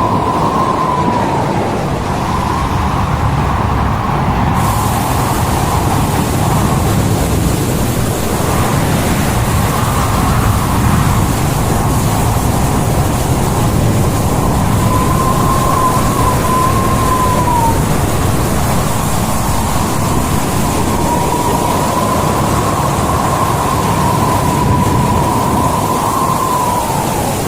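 Loud, steady rumble of storm wind and heavy sea aboard a ship in rough weather. Over it, a wavering whistle swells and fades three times: at the start, about halfway through, and over most of the last third.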